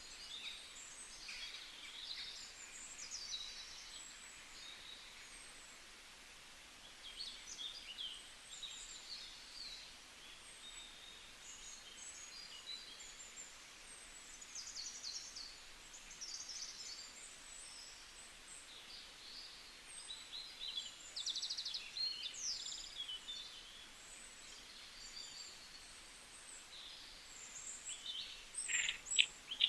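Several birds chirping and calling faintly, many short high calls scattered over a steady hiss of background noise. A louder, rapid trilling call starts near the end.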